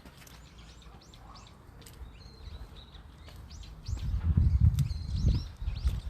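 Small birds chirping: short, quick, high calls, several a second. About four seconds in, a loud low rumble comes in under them and becomes the loudest sound.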